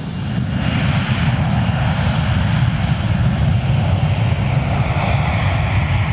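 Fixed-wing aircraft's engines running loud with a heavy rumble. The sound swells over the first second and then holds steady.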